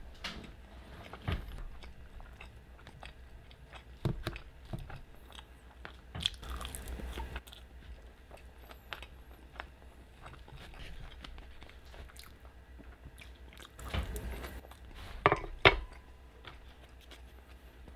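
Close-up chewing of a mouthful of loaded carne asada fries: soft wet mouth sounds and small clicks, broken by a few louder sharp sounds, the loudest two close together about fifteen and a half seconds in.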